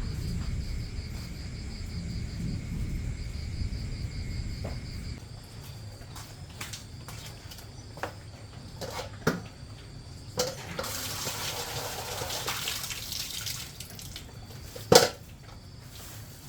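Water splashing and pouring for about three seconds, among scattered clicks and knocks of pots or utensils, with one loud knock near the end. Before it, for about five seconds, a low rumble and a steady high chirring.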